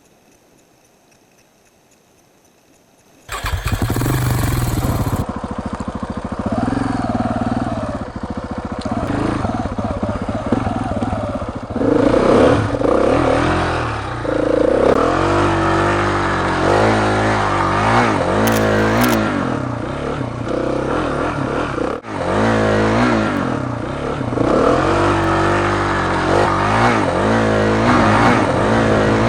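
About three seconds of near silence, then a motorcycle engine comes in loud and runs, its pitch rising and falling again and again as it revs up through the gears while riding. It is heard through the dash cam's own microphone.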